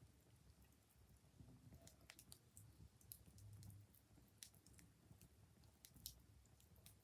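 Wood fire crackling quietly, with irregular sharp pops and snaps over a low rumble.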